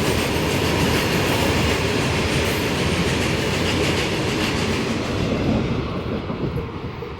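Double-stack container freight train rolling past at speed, its wagons' wheels running loud over the rails, then the noise falling away about six seconds in as the train moves off.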